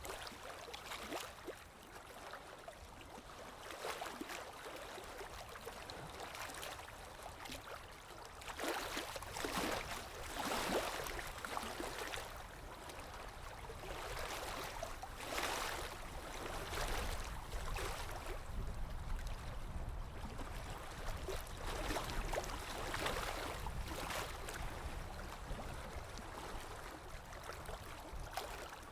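Running, gurgling water as a steady ambience, swelling louder now and then.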